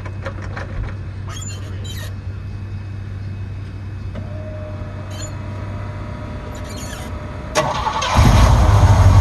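Classic pickup truck's engine being started: a sudden crank about seven and a half seconds in, then the engine catches and runs loud and steady.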